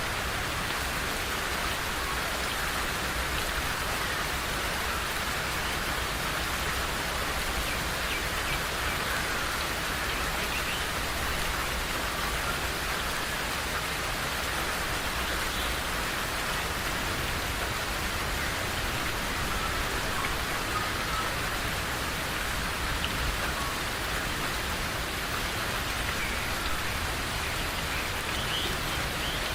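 Steady rain falling on forest foliage, an even unbroken patter, with a few faint short high chirps from birds now and then.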